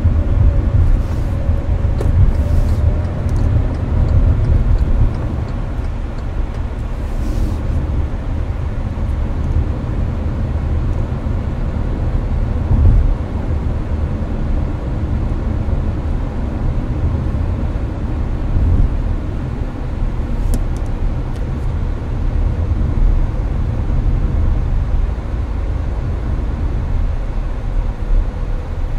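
Inside the cabin of a Hyundai Avante (Elantra) cruising on the highway: a steady low road and engine rumble, with the air-conditioner's fan hiss mixed in.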